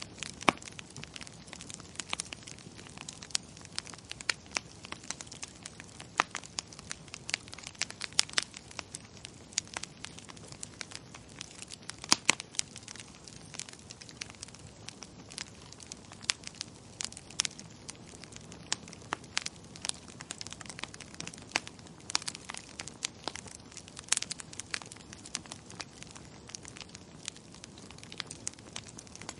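Wood fire crackling in a fireplace: irregular sharp pops and snaps over a steady low hiss, the loudest pop about twelve seconds in.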